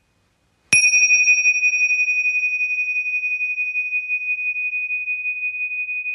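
A single struck metal chime or bell: a sharp strike a little under a second in, then one clear, high, steady ring that slowly fades.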